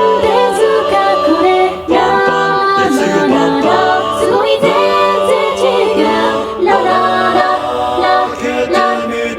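Mixed-voice four-part a cappella chorus: several layered vocal tracks singing held chords in harmony, without instruments, moving from chord to chord every second or so.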